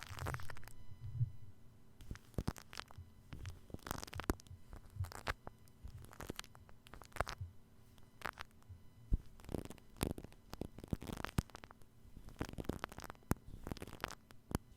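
Shaving cream foam worked over a binaural microphone's ear, giving close, irregular crackles and squishes. There are a few low rumbles from handling near the start.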